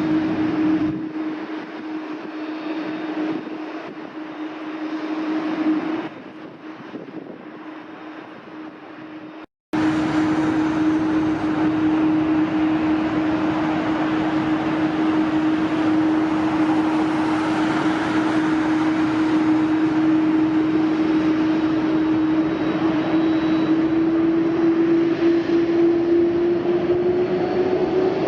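Jet airliner engines running: a steady whine over a broad rushing noise. About a third of the way in the sound cuts off for a moment and comes back louder, and near the end the whine rises in pitch.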